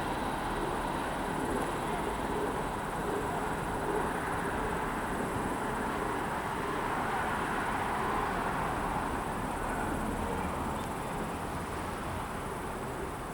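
A double-deck passenger train rolling past on the rails: a steady rushing rumble of wheels and coaches that fades a little near the end.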